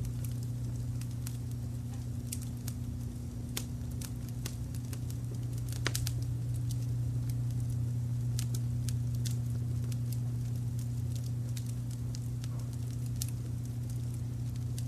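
Wood fire crackling, with irregular sharp pops and ticks and one louder pop about six seconds in, over a steady low rumble of brown noise.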